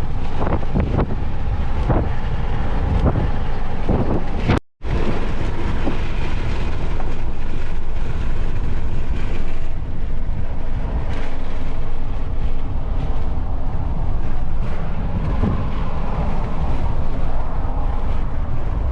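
Car driving along, a steady rumble of road and engine noise with wind buffeting the microphone, gustier in the first few seconds; the sound cuts off abruptly once, about four and a half seconds in, and picks up again.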